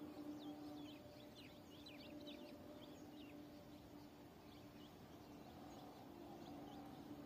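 Faint bird chirps: a flurry of quick, short downward-sliding notes, thickest in the first three seconds and thinning out after, over a faint steady low hum.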